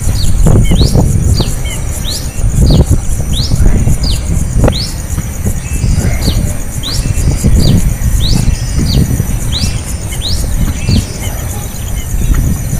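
Young bird's begging chirps: short, sharp calls, mostly rising, repeated about once or twice a second, over dull low thumps.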